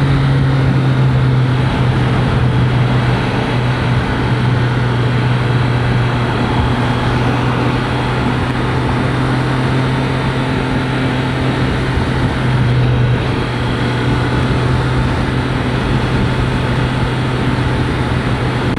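Triumph Street Triple 765 RS inline-three engine running at a steady cruise of about 50 mph, with wind noise over the helmet. Heard from inside the helmet, the engine note holds steady, with a brief dip about twelve seconds in.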